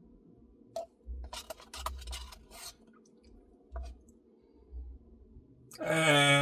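Close-up eating sounds: scattered wet clicks and smacks of chewing. Near the end comes a loud, drawn-out vocal sound.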